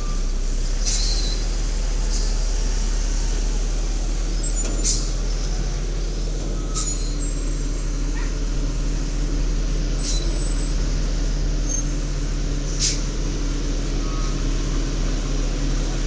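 Garbage truck engine running steadily, with about half a dozen short, sharp air hisses from its air system spread through.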